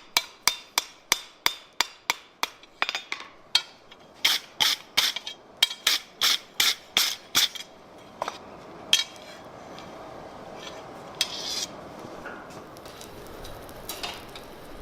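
Blacksmith's hand hammer striking hot steel on an anvil in a quick, even run of about three blows a second. Then comes a series of heavier, ringing blows that stops about seven and a half seconds in. After that, a steady rushing noise continues with a few scattered knocks.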